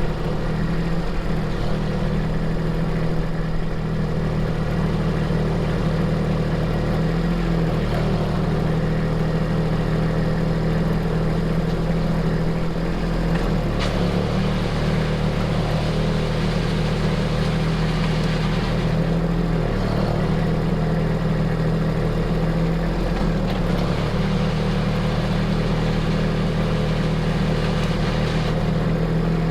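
A vehicle engine running steadily throughout, a continuous low hum with only small changes in load.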